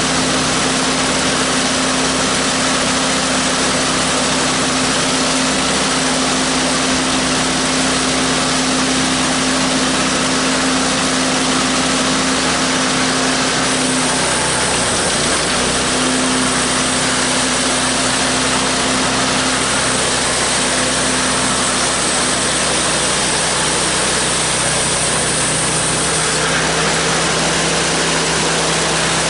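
Engine of a homemade bandsaw sawmill running steadily. A high hiss joins it about halfway through and drops away a few seconds before the end.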